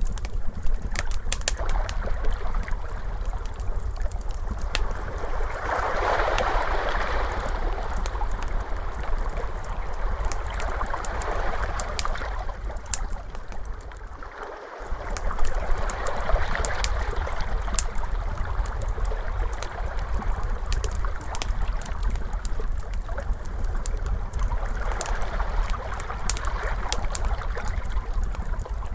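Wood fire crackling with frequent sharp pops over ocean waves that wash in and swell every few seconds, with a steady deep rumble beneath. Both drop away briefly about halfway through, then resume.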